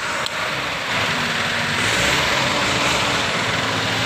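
Heavy vehicle's diesel engine running steadily, under a wide hiss, during the recovery of a truck stuck in mud.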